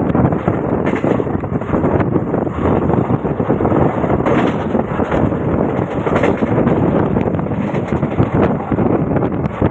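Passenger train coach running at speed, heard from an open doorway: a steady, loud rumble of wheels on the rails, with wind buffeting the microphone.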